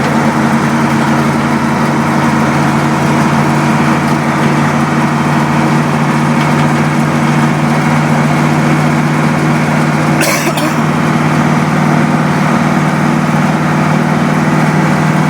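Cat 3208 V8 diesel running steadily under way, heard from inside the truck's cab, with a brief clatter about ten seconds in.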